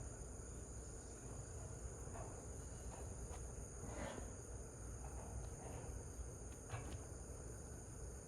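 Grass insects, crickets among them, singing in a steady high-pitched chorus. Faint short rustles come now and then.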